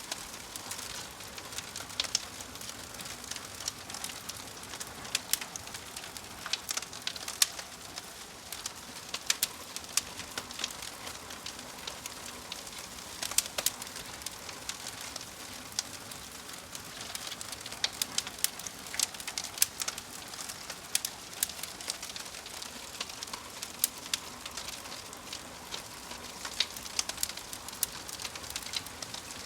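Wood fire crackling, with frequent irregular sharp pops and snaps over a soft steady hiss. A bird calls in the background.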